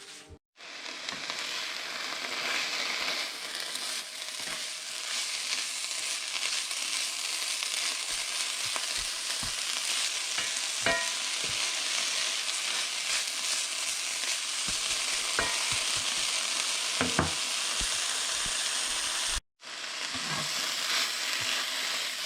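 Wild greens and mushrooms sautéing in melted butter in a pan: a steady sizzle, with a few knocks of a utensil stirring against the pan. The sizzle cuts out briefly twice, about half a second in and near the end.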